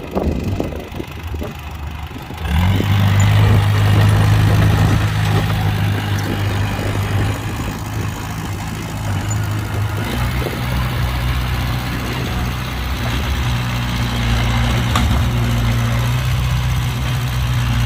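Heavy diesel engine of an earthmoving machine running steadily with a deep hum, getting clearly louder about two and a half seconds in.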